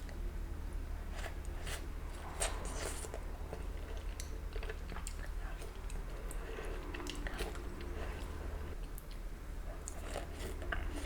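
Close-miked eating of saucy oysters: wet chewing and biting with crunchy crackles, in scattered short clicks. A steady low hum runs underneath.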